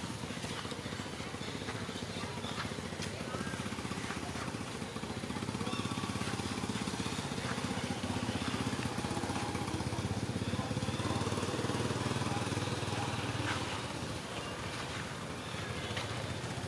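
A small engine running steadily, growing louder about five seconds in and easing off near the end.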